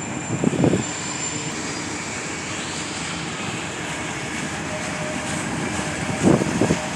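Long freight train rolling past, a steady rushing rumble of its cars on the rails.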